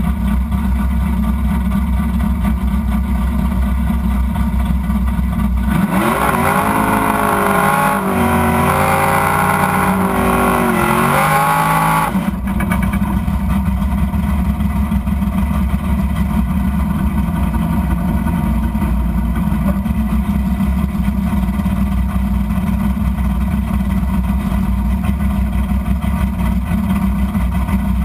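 Drag car's engine heard from inside the cabin, idling steadily. About six seconds in it revs up hard and holds high with a wavering pitch and a loud hiss over it, then drops back to idle about six seconds later.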